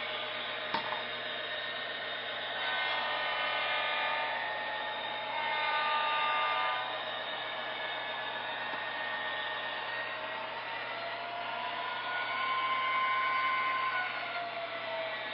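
HO scale model locomotive running around the track: a steady small electric motor whir with wheel noise, its whine rising and falling in pitch and swelling louder three times. One sharp click about a second in.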